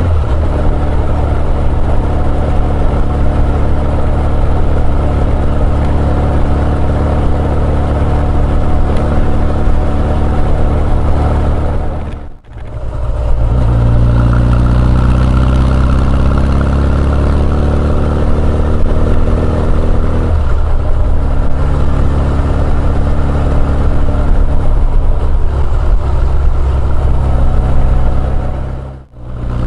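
Honda CB1100EX's air-cooled inline-four running through an Earl's Gear Wyvern Classic aftermarket muffler on the move, the engine note climbing in pitch as it accelerates, with a drop in pitch about twenty seconds in as it shifts up and climbs again. The sound briefly fades out and back in about twelve seconds in and again near the end.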